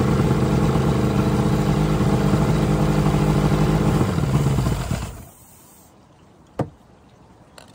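Four-cylinder two-stroke outboard motor running on fogging oil sprayed into its carburetors, then stalling and dying about five seconds in. Its stopping is the sign that enough fogging oil has gone in. One short knock follows.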